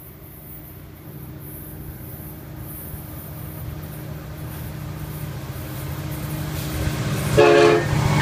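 Florida East Coast Railway freight train approaching, the low rumble of its diesel locomotives growing steadily louder, then a short, loud horn toot a little over seven seconds in as the lead locomotive draws level.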